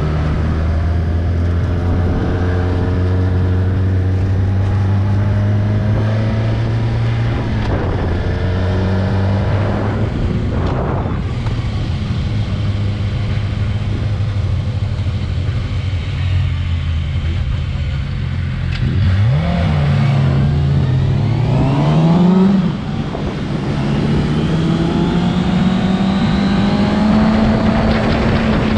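Motorcycle engine running at speed on a race track, steady at first. About two-thirds of the way through the revs dip and climb, drop sharply at a gear change, then climb steadily again.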